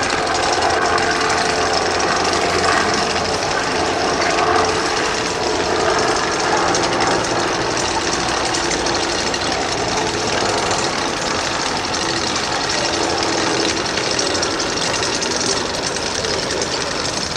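A car engine running with a steady, rapid rattle.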